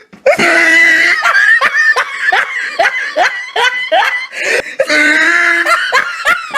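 A person laughing hard in a long run of short, high-pitched bursts, broken by a couple of drawn-out squeals.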